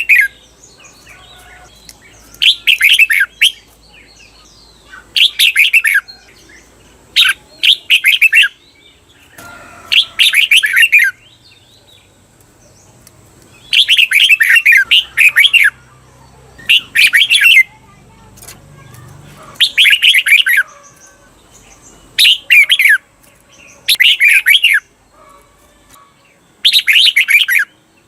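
Red-whiskered bulbul singing short bursts of quick warbled notes, each about a second long, repeated every two to three seconds with quiet gaps between. One burst runs on for about two seconds. This is the doubled song (เบิ้ล) that keepers use to train caged bulbuls.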